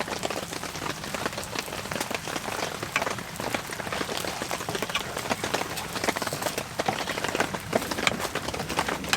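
Heavy rain pattering on tent fabric, a dense and irregular spatter of drops.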